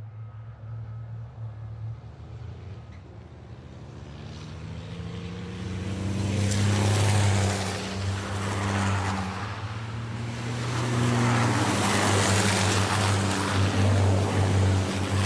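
Diesel engines of racing trucks running on track, a steady low engine drone that swells as trucks pass, about six seconds in and again later on.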